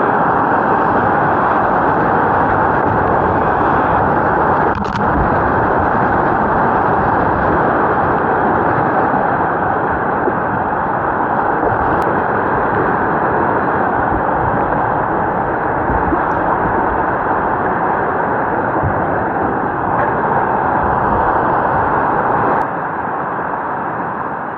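Steady rush of river water over rapids, a loud even noise that begins to fade near the end.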